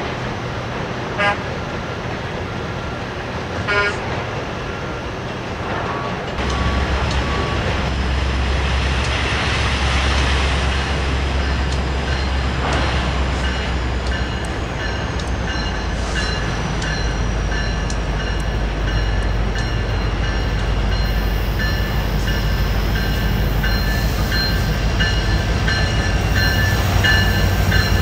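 Train horn giving two short toots, then a locomotive's deep engine rumble comes in about six seconds in and grows louder as the train draws near, with steady high tones over it.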